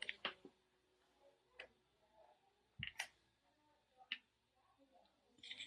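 Near silence broken by a handful of faint, irregular clicks and taps, about six spread over the few seconds.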